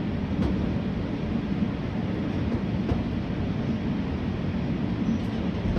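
485-series electric train running steadily, a low rumble of wheels and traction motors heard from the cab, with a couple of faint clicks.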